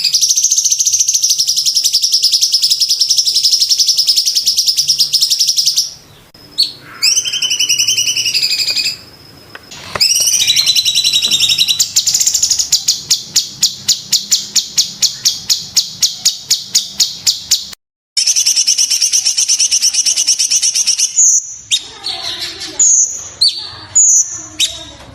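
Cucak cungkok singing loudly: long dense high rattling trills, a few gliding whistles, a fast run of rapid repeated notes, then short sharp calls repeated near the end.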